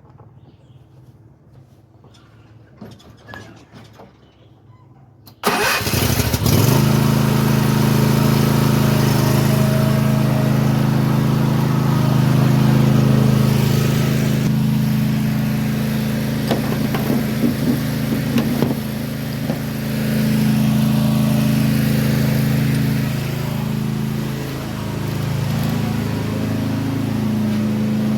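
Toro TimeCutter mower's Kawasaki FR691V V-twin engine starting suddenly about five seconds in, then running steadily at a fast idle on freshly replaced ignition coils and spark plugs. Its speed eases slightly about two-thirds of the way through and shifts again near the end.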